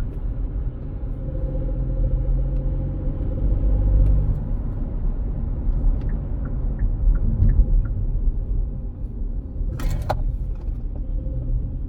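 Car engine and road rumble heard from inside the moving car, with a brief sharper sound about ten seconds in.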